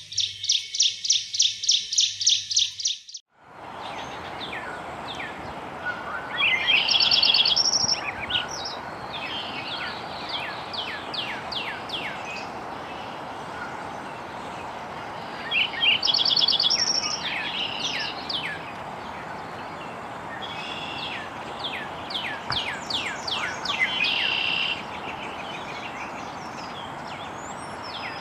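Birdsong: a loud, rapid trill of repeated high notes, about four a second, that cuts off about three seconds in. It is followed by a different bird's song of repeated high chirps, short trills and quick downward-sweeping notes over a steady outdoor hiss.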